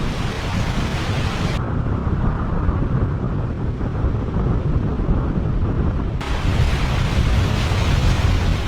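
Strong storm wind buffeting the microphone, a heavy low rumble under a hiss. The hiss drops out suddenly about a second and a half in and comes back about six seconds in, while the rumble carries on.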